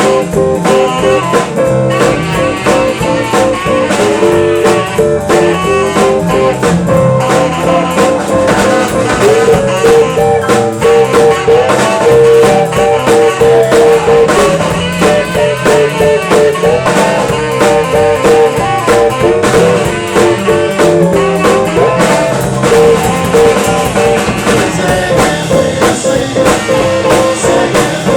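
Live band playing a blues number, with electric guitar and drum kit.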